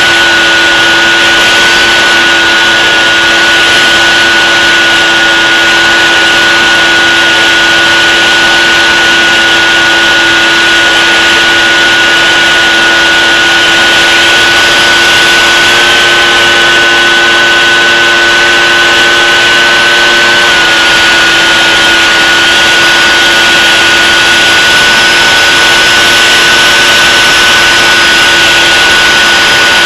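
Aircraft motor running steadily in flight, a loud, constant whine with a low hum beneath it. Its pitch steps up slightly about sixteen seconds in and drops back about twenty seconds in.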